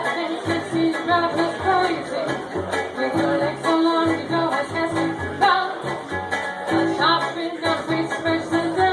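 Band music with a singer's voice over a bass line that steps from note to note.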